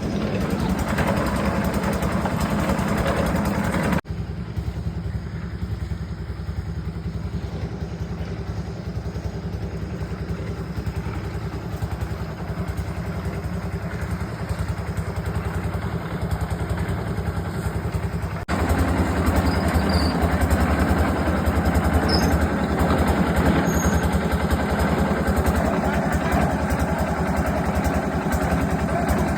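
An engine running steadily. The sound abruptly drops to a lower level about four seconds in and jumps back up about eighteen seconds in.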